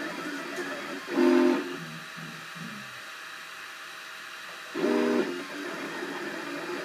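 Cubify 3D printer running a print: its stepper motors hum and chatter steadily as the print head moves, with two louder pitched whines of about half a second each, one about a second in and one near five seconds in.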